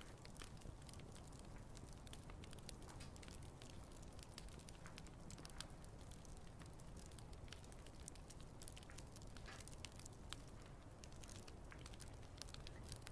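Wood campfire crackling softly: frequent small snaps and pops of burning wood, irregular, over a low steady rumble.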